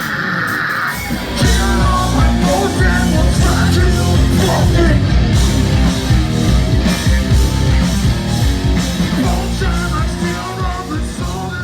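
Loud hard rock music with a singer's voice over the band.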